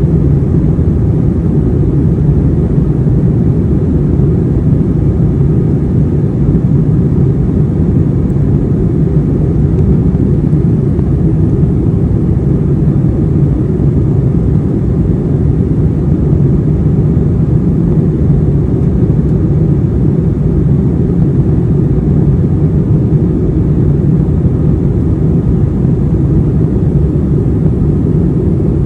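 Steady low rumble inside the cabin of an Airbus A321 airliner: the engines and the airflow heard through the fuselage, with no change in level.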